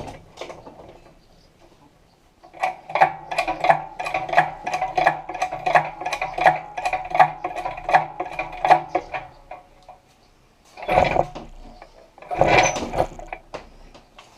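Lifting mechanism ratcheting with a fast run of clicks, about three or four a second, while an engine is hoisted out of a car's engine bay. Near the end come two louder clunking, scraping bursts.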